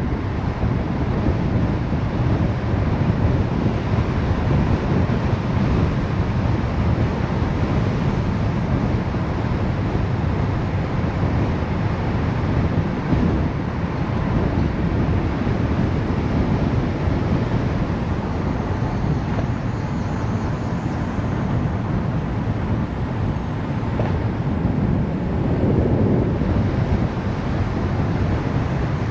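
Steady road noise of a car being driven: a deep, even hiss with no distinct events.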